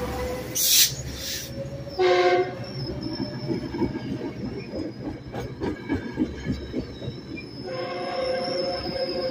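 Metrolink commuter train's bilevel coaches rolling past, their wheels clicking irregularly over the track with a thin high squeal. There is a brief hiss just under a second in and a short tone of several pitches at about two seconds. Near the end a steadier multi-pitched squeal sets in.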